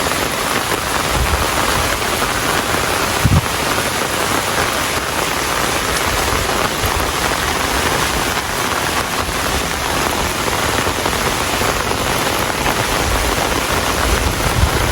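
Steady rain falling and pattering on surfaces, an even, dense hiss, with a brief low thump about three and a half seconds in.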